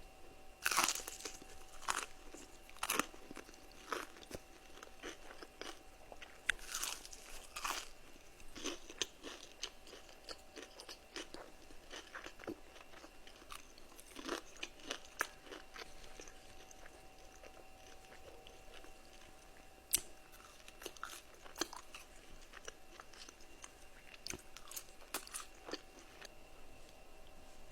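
A person eating crunchy food close to the microphone: bites and crisp crunches between quieter chewing, the loudest crunches in the first eight seconds and one sharp one about twenty seconds in.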